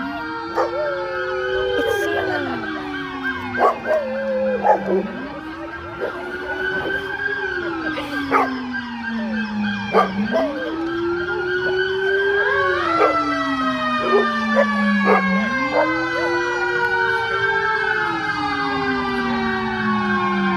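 Fire truck sirens wailing: one rises quickly and falls slowly about every five seconds, while a higher siren glides slowly downward over it.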